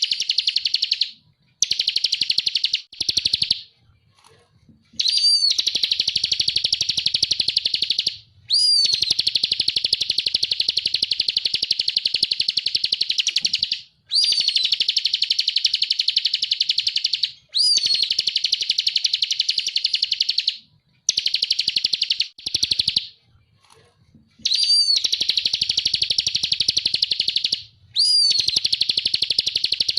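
Bar-winged prinia (ciblek) singing: bout after bout of fast, high chattering song, each bout opening with a short whistled note, with brief pauses in between.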